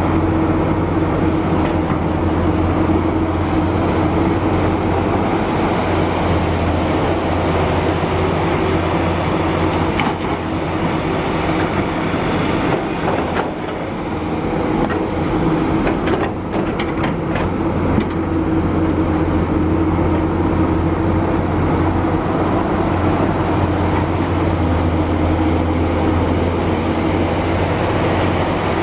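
Heavy diesel excavator engine running steadily under load as it digs and loads soil, with a few short knocks about halfway through.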